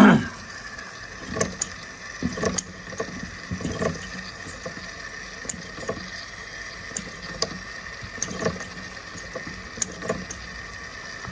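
Boiler of an Empire B42 toy steam engine coming up to steam: a steady hiss with irregular small ticks and pops as the water heats.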